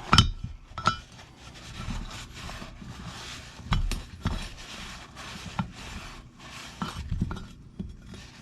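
Cleaning out a bearing seat in an ATV front differential case half: a run of short rubbing and scrubbing strokes, with a few light metal clinks and knocks between them.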